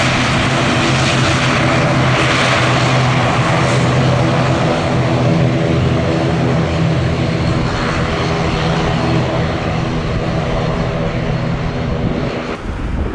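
Twin-turboprop ATR 42-600 airliner's engines and propellers running, a steady propeller drone with a low humming tone over engine hiss, which stops abruptly near the end.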